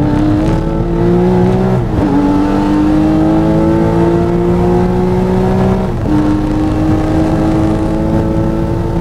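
Air-cooled Porsche 993 flat-six accelerating hard, heard from inside the cabin: the engine note climbs steadily, drops sharply twice with upshifts about two and six seconds in, and climbs again after each.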